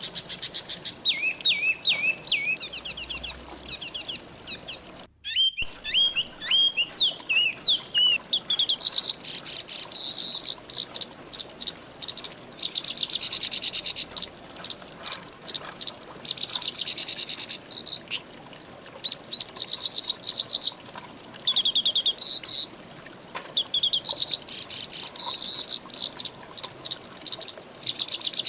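Songbirds singing in quick repeated chirps and rapid trills, several phrases overlapping, over a steady high-pitched insect drone; the sound cuts out for a split second about five seconds in.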